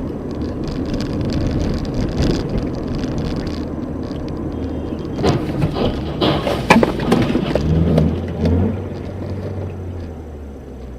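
Car driving noise, a steady rushing hiss of tyres and road, then a cluster of sharp knocks and bangs about five to eight seconds in.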